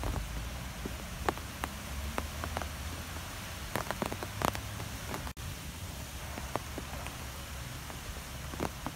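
Steady rain falling, with scattered individual drops ticking sharply near the microphone over a low rumble. The sound cuts out for an instant just past halfway.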